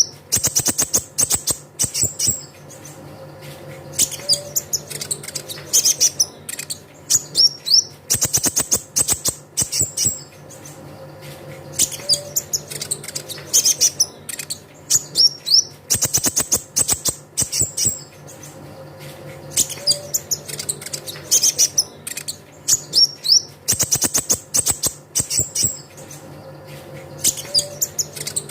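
Kolibri ninja (konin) sunbird song: high, thin chirps and quick slurred notes broken by rapid ticking trills, the same phrase coming round about every eight seconds as a looped lure recording. A steady low hum sits underneath.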